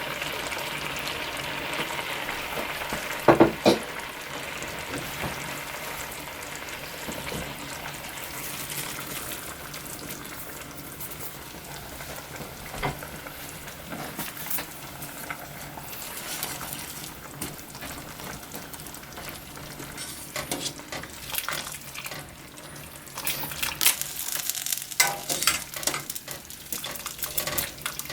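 Food sizzling in a frying pan while being stirred, with utensil knocks and scrapes against the pan, one louder clatter about three and a half seconds in and a busier run of stirring near the end.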